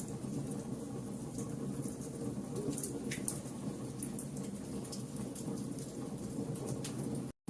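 A fire crackling: a steady low rumble with scattered sharp pops and snaps. The sound cuts out completely for a split second near the end.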